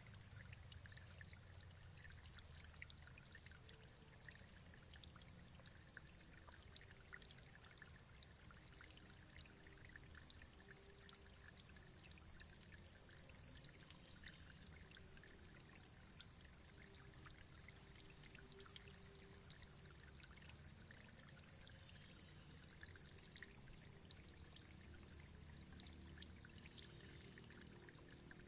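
Faint, steady running water, a stream pouring and trickling with many small splashing ticks.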